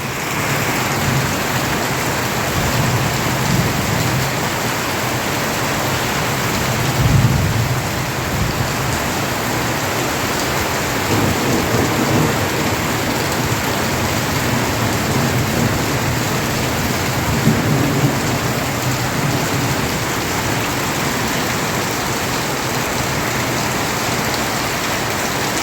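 Heavy rain pouring down steadily, with low rolls of thunder rumbling under it, the loudest about seven seconds in.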